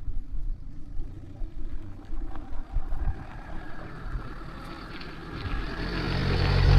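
A car approaching along the road, its engine and tyre noise growing louder over the last couple of seconds, after some irregular low thumps earlier on.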